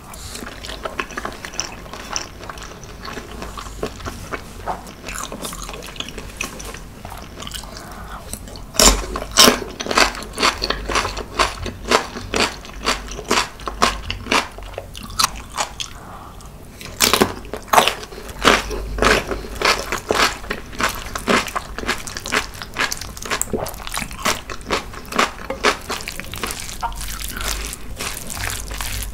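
Close-miked eating sounds: soft wet chewing at first, then, from about nine seconds in, many loud crisp crunches from biting and chewing crunchy pieces of spicy cucumber salad.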